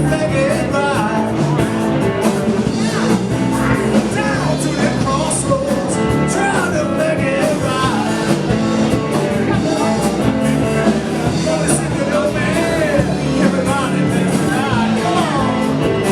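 Live blues band playing an electric, rock-and-roll style number, with electric guitar lines and singing over a steady band.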